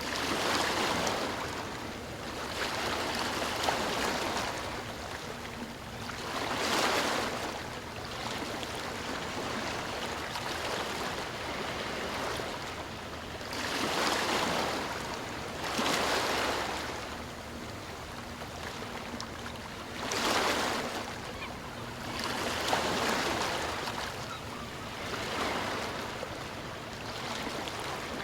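Sea waves breaking and washing up on the shore, the surf swelling and ebbing every few seconds.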